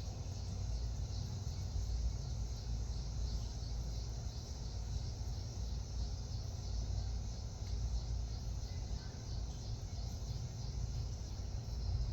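Steady high chirring of insects, crickets, over a constant low rumble. No dove cooing stands out.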